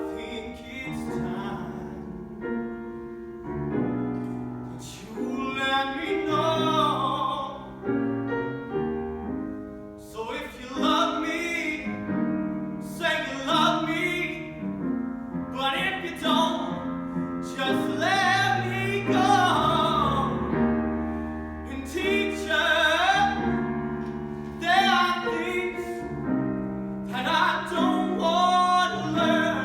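A solo voice singing a song with piano accompaniment, its held notes wavering with vibrato.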